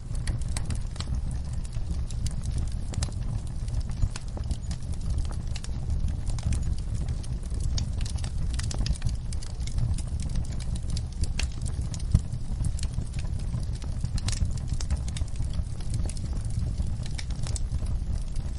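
Wood fire crackling, with frequent irregular sharp pops over a steady low rumble of burning; one louder pop about twelve seconds in.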